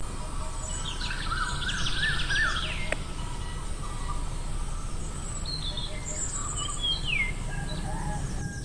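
Several birds chirping and singing in short warbling phrases over a steady low background noise, busiest in the first few seconds and again near the end.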